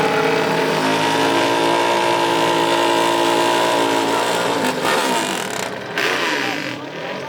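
A small racing engine held at high revs for about four and a half seconds, then dropping and wavering in pitch as the throttle comes off and goes back on, with a sudden loud blip about six seconds in.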